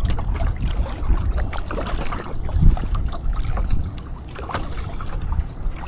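Water splashing and lapping around a kayak as it is paddled through a light chop, with wind rumbling on the microphone and a brief low thump about two and a half seconds in.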